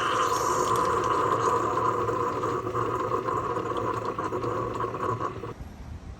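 A steady mechanical hum over a hiss, held at an even pitch, cutting off about five and a half seconds in.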